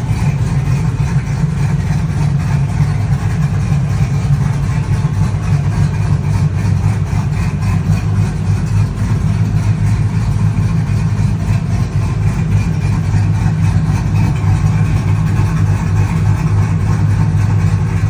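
Truck engine running steadily with a low, even rumble and no revving.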